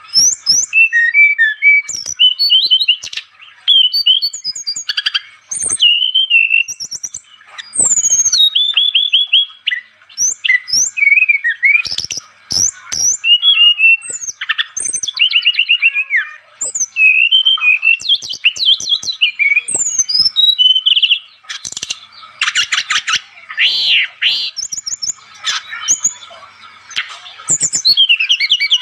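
Brown-chested jungle flycatcher (sikatan rimba dada coklat) singing vigorously: a continuous run of varied high whistles, quick up-and-down glides, chirps and fast trills in short phrases separated by brief pauses.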